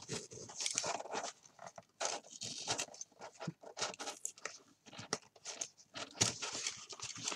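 Book's cover being cut away from the paper spine: irregular crunching and crackling of card and paper in short bursts.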